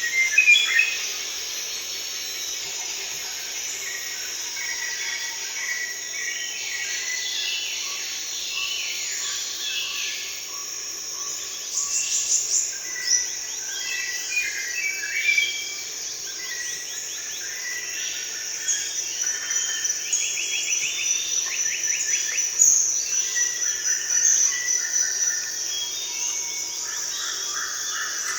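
Forest ambience: a steady, high-pitched insect drone, with many birds calling and trilling over it.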